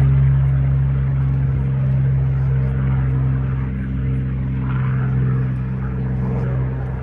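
An engine running steadily, a loud low drone with overtones and no change in pitch, slowly easing in level.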